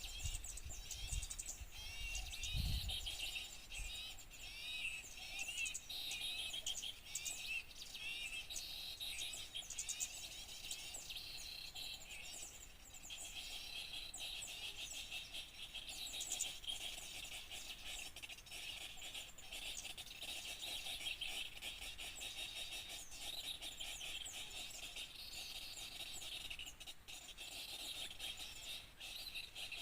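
Many small songbirds chirping and trilling at once, short quick calls overlapping without pause over a steady high insect-like hiss. A low thump about two and a half seconds in.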